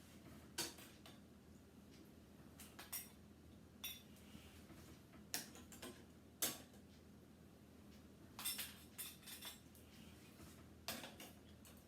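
Faint, scattered clinks and light knocks of metal canning lids and screw rings against glass jars as the jars are handled and set down, spaced a second or two apart.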